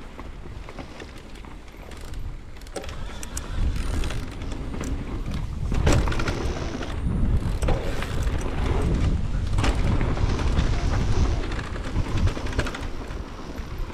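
Mountain bike riding a dirt trail: wind rushing over the camera microphone, tyre noise and the bike rattling and knocking over rough ground. It gets louder about two seconds in.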